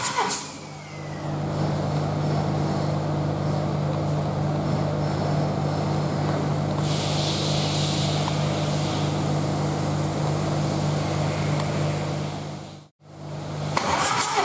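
Volkswagen 1.9 TDI BKC four-cylinder turbodiesel running steadily at idle on a test stand, with an even low hum. A brighter hiss comes in about halfway, and the sound cuts out for a moment near the end before the same running resumes.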